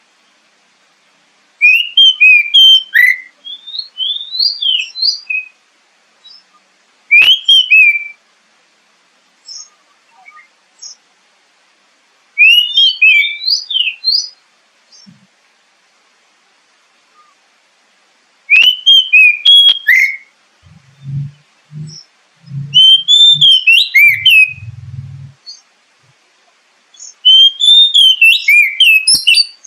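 Oriental magpie-robin (kacer) singing: six bursts of rapid, varied whistled phrases a few seconds apart, with short silent gaps between.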